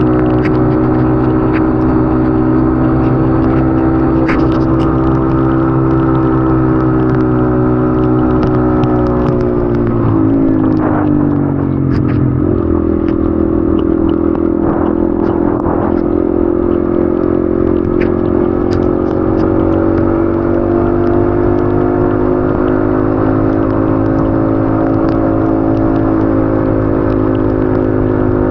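Yamaha XSR155's single-cylinder engine running steadily under way, heard from the rider's position. About ten seconds in, its note falls, then steps back up about two seconds later and holds steady.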